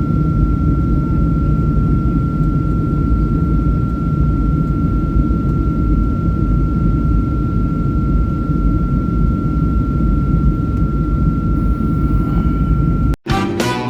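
Steady low rumble of a running vehicle, with one constant high-pitched tone held over it. It cuts off suddenly near the end.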